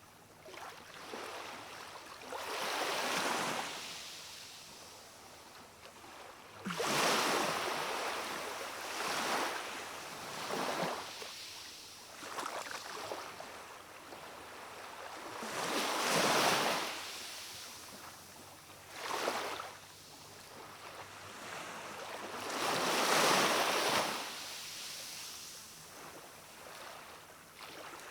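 Gentle sea waves washing onto a rocky shore, each one swelling to a hiss and falling away every few seconds.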